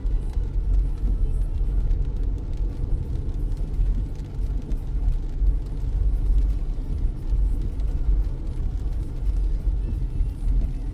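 A car driving on a rain-soaked road, heard from inside the cabin: a steady low rumble of tyre and engine noise, with a faint hiss of rain above it.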